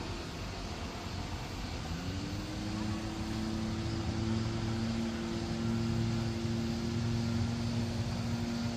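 A motor or engine hum over a steady rushing noise, rising in pitch about two seconds in and then holding level.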